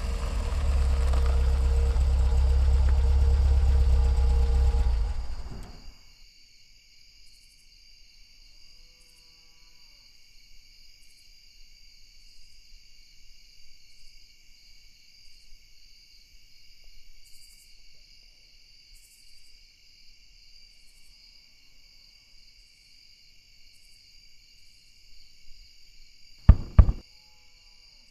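Car engine running, then switched off about six seconds in. Crickets chirp steadily after that. Two sharp knocks come near the end.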